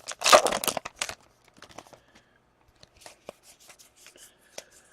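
A hockey card pack's foil wrapper being torn open and crinkled, followed by softer rustles and flicks as the cards are handled.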